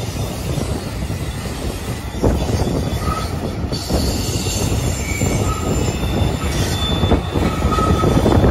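Double-stack intermodal freight cars rolling past: a steady, loud rumble of steel wheels on the rails. Brief high wheel squeals come and go from about three seconds in.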